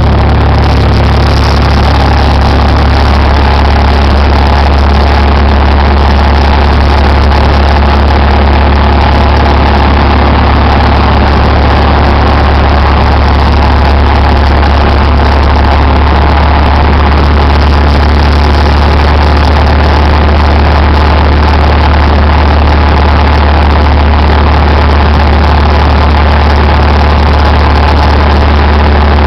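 Cessna 172's piston engine and propeller droning steadily, heard from inside the cabin, with no clear change in power.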